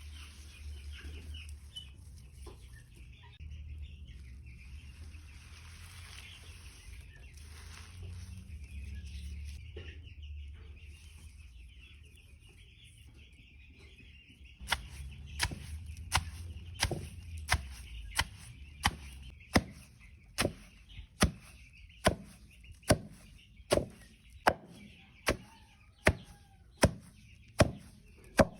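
A flock of two-week-old poultry chicks peeping steadily. About halfway through, sharp chopping or pounding blows begin, evenly spaced at about three every two seconds, louder than the peeping.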